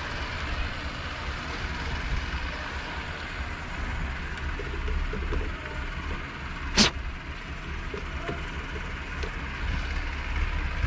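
Engine running steadily with a low rumble, with one sharp click about seven seconds in.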